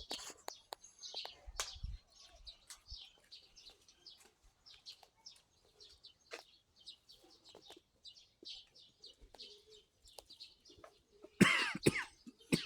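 Sparrows chirping, a steady run of many short, faint chirps. About eleven seconds in there is a brief, much louder pitched sound.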